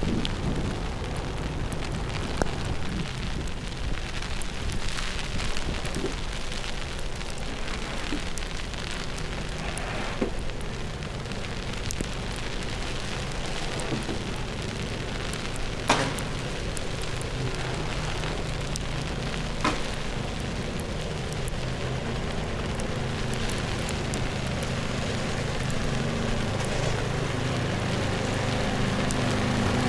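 Street ambience in a snowstorm: a steady hiss of falling snow and wind with scattered small clicks. A vehicle engine runs underneath from about halfway and grows louder near the end.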